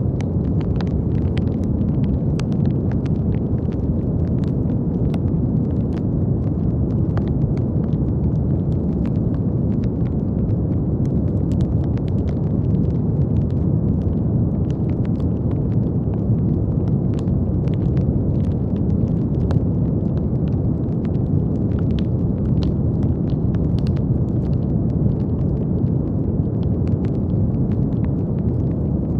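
Continuous brown noise: a steady, deep rumbling hiss weighted toward the low end, with faint crackles scattered irregularly through it.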